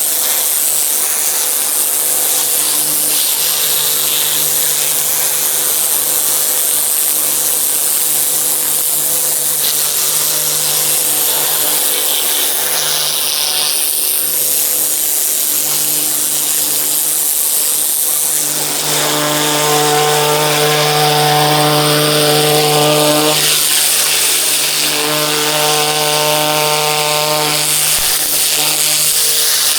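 A pressure washer running, its water jet hissing steadily against the ground over a constant machine hum. About two-thirds of the way through, the hum grows louder with a clear pitched drone, drops back briefly, then returns.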